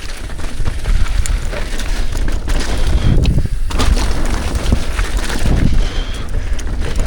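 Wind buffeting an action camera's microphone in heavy low rumbles while a Trek Slash mountain bike runs down a rough, wet trail, with scattered knocks and rattles from the bike over the bumps.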